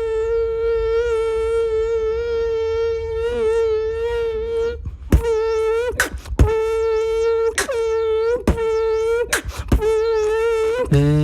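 A beatboxer's vocal animal imitation: a steady, buzzy hum held at one pitch with shifting overtones, broken in the second half by several sharp mouth clicks, and dropping to a much lower drone at the very end.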